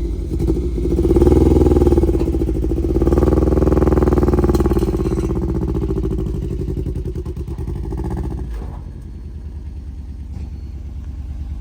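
Motor vehicle engine running under light throttle, its pitch rising and falling a few times as it is given gas and eased off, then running lower and steadier in the second half.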